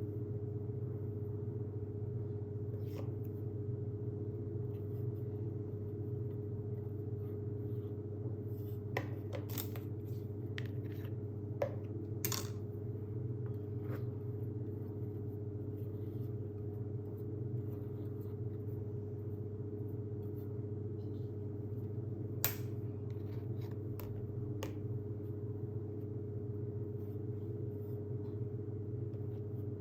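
Steady low background hum with a few scattered light clicks and taps of cake decorating tools, the sharpest about twelve and twenty-two seconds in.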